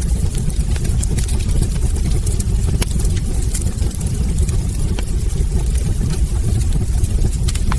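Wood fire burning in a fireplace: a steady low rumble of flames with scattered small crackles and sharper pops from the logs.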